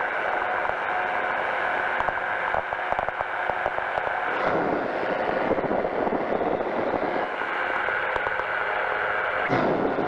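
Powered parachute's engine and propeller droning steadily in flight, with a rush of noise over it, swelling briefly about four and a half seconds in and again near the end.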